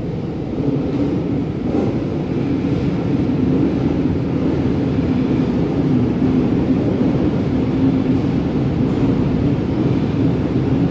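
Sydney Trains double-deck electric train running into the platform: a steady, loud low rumble with a low hum, growing a little louder about a second in.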